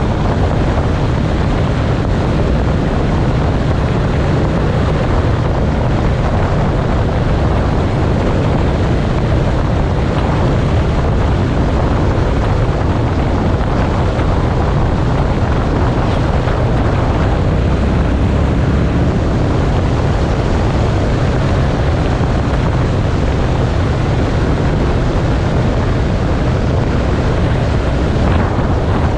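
Motorcycle riding at a steady speed: engine and loud wind rush buffeting the microphone, with no change in pace.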